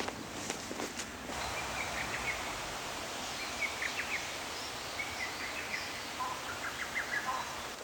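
Songbird singing short chirped phrases, repeated about every second and a half, over a steady outdoor hiss.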